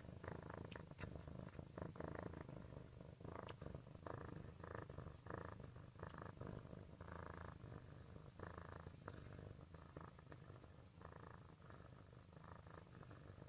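Black kitten purring, a faint, steady low rumble that swells and eases with its breathing.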